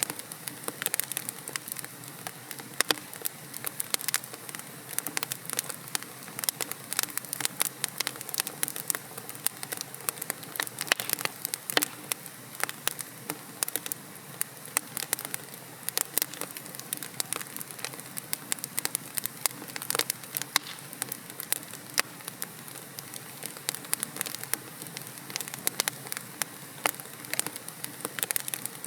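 Wood logs burning in a fireplace: a steady hiss of flame with dense, irregular sharp crackles and pops throughout.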